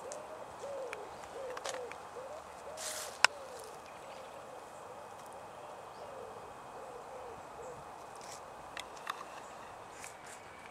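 A bird calling a run of short notes that rise and fall, about two a second, stopping a little past halfway. A few sharp clicks, the loudest about three seconds in.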